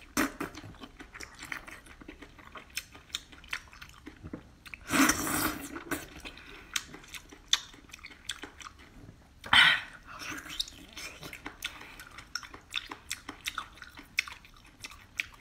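Close-up wet chewing and lip smacking of a person eating spicy braised octopus, with many short sticky clicks. Two louder bursts about a second long come about five seconds in and near ten seconds in.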